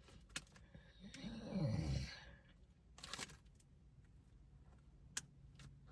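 A woman's low, gravelly groan of disgust, rising then sinking to a deep growl, followed about a second later by a short, quick sniff.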